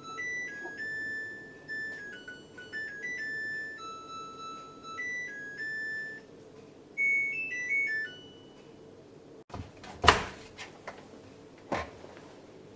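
Samsung Eco Bubble washing machine playing its electronic beeping melody, a tune of simple stepped tones that ends about eight seconds in, typical of the end-of-cycle signal. A few sharp clicks and knocks follow, the loudest about ten seconds in.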